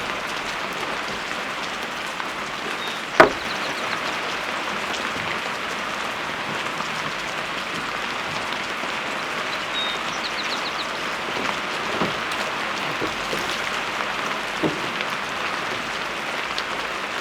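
Steady rain falling, with a single sharp tap about three seconds in and a few faint high trills.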